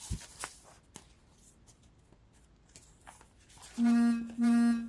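A few faint handling clicks, then a horn-like tone sounding twice near the end, two short steady blasts of the same pitch.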